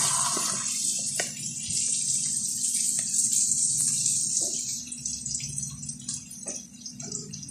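Chicken pieces sizzling in hot oil in a frying pan, a steady hiss that dies down about five seconds in. A few light clicks, like a plate and fork being set down, sound over it.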